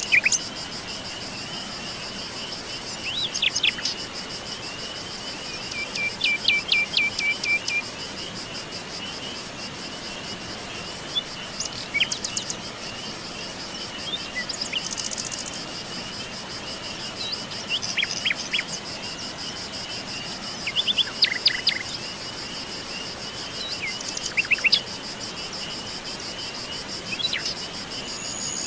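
Insects, crickets by the sound, chirping steadily in a high pulsing trill, with various small birds calling and singing in short phrases over it every few seconds.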